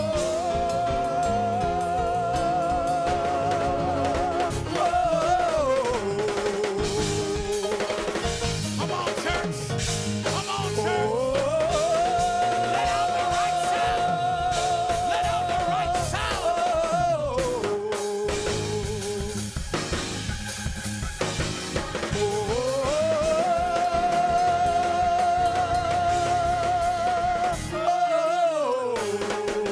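Live church praise music: a drum kit keeping time under long held, slightly wavering sung notes that climb, hold and drop back in a phrase repeated about three times.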